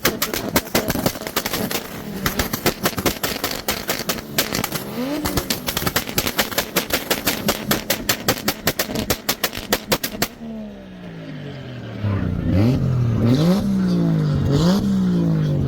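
Car engine held on a two-step launch-control rev limiter, its exhaust popping and banging in rapid fire, about five or six bangs a second. The popping cuts off about ten seconds in, and a couple of seconds later an engine is revved up and down in repeated blips, about one a second.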